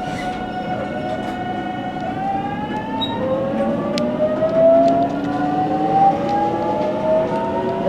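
JR Kyushu 813 series electric train's inverter and traction motors whining, several tones rising steadily in pitch as the train accelerates, heard from the driver's cab. A sharp click about four seconds in.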